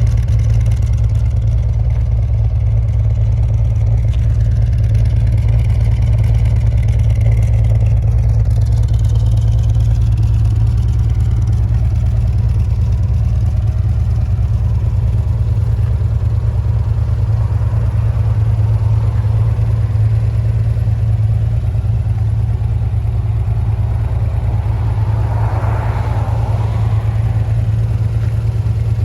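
Modified 1977 Datsun 280Z's engine idling steadily while warming up from a cold start, with a brief burst of extra noise near the end.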